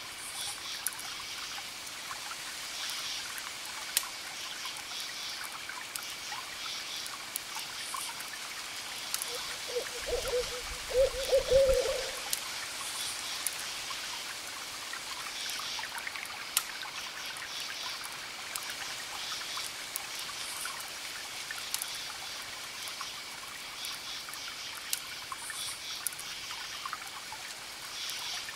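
An owl hooting about nine to twelve seconds in: a short hoot, then a longer wavering one. It sits over a crackling wood fire, a steady hiss with scattered sharp pops.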